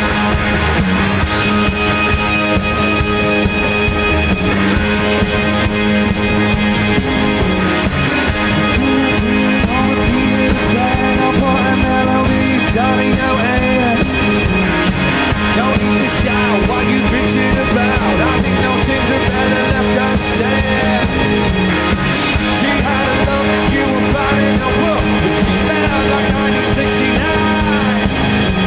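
Live rock band playing an instrumental passage: guitars, bass and drums, with a lead melody sliding up and down in pitch through the middle.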